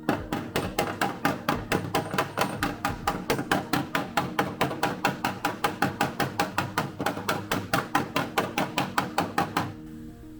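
Body hammer tapping a steel body panel of a Toyota AE86 in a fast, even run of sharp metallic strikes, about five or six a second, as stretched sheet metal is worked and shrunk; the hammering stops near the end. Background music plays underneath.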